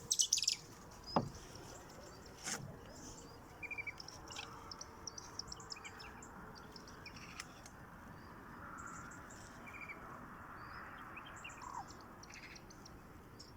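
Small birds chirping in scattered short high calls over a faint steady outdoor hiss, with a sharp click about two and a half seconds in.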